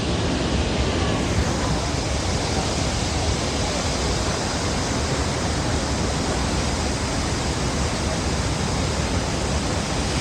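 Waterfall, a steady, loud rush of falling water close by.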